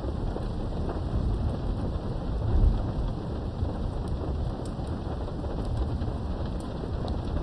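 Steady rain with low rumbling thunder, heard from indoors behind a window; the rumble swells about two and a half seconds in. Light drips tick now and then over the rain.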